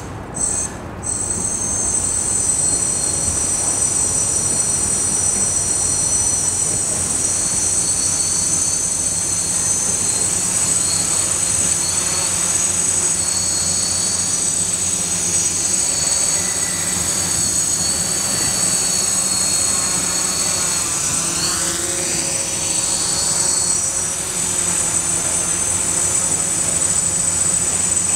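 Radio-controlled hexacopter's brushless motors and propellers running with a steady high whine. The pitch wavers and shifts for a few seconds about three-quarters of the way through.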